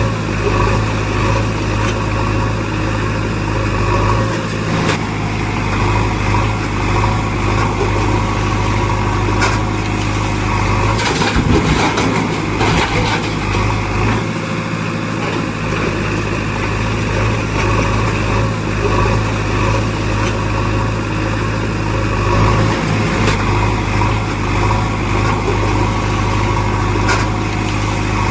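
Heavy diesel engine of a backhoe loader running steadily while it works, with a brief burst of clattering about eleven to thirteen seconds in.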